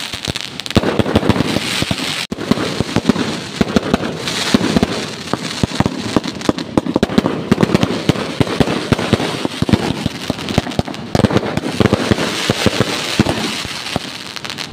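Fireworks going off in a dense, continuous barrage of rapid sharp bangs and crackling, with no let-up.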